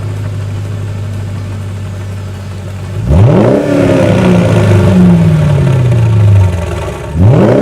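2006 Mercedes ML500's V8 engine running steadily, then revving up sharply about three seconds in. It stays loud while its pitch slowly sinks, and it revs up sharply again near the end.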